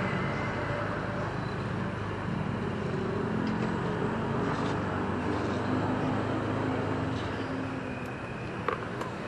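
Motorcycle engine running at low speed as the bike creeps slowly, a steady low hum, with one sharp click near the end.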